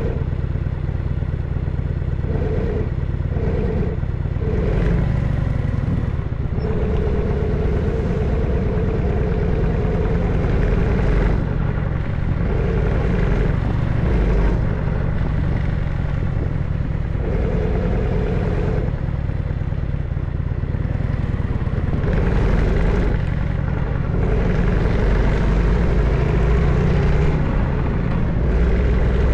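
Harley-Davidson FXSTS Springer Softail's air-cooled Evolution V-twin running under way, its note changing every few seconds as the throttle opens and eases off.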